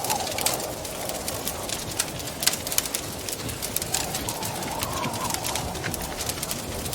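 Wood fire crackling with frequent irregular pops, over wind howling in gusts whose pitch rises and falls, swelling at the start and again about four seconds in.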